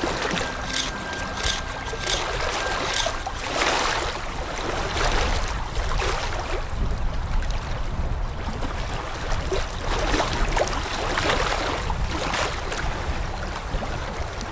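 Water splashing and running, an uneven rushing noise that swells and fades.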